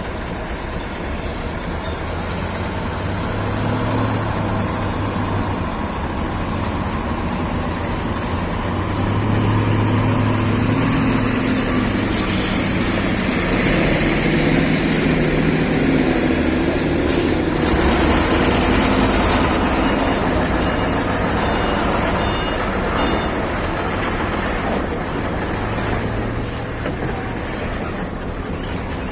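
Heavy diesel truck engines running, their note shifting up and down. A high hiss comes past the middle.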